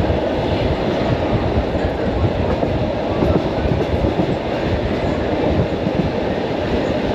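Commuter electric train running along the track, heard from inside the carriage: a steady rumble of wheels on rails.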